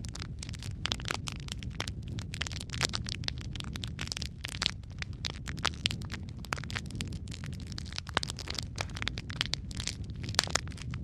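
Wood fire burning in a fireplace, crackling and popping: dense, irregular sharp snaps over a steady low rumble of the flames.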